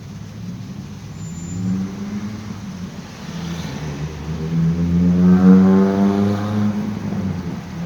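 Car engine running and picking up speed: it grows louder and rises in pitch from about halfway in, peaks, then eases off near the end.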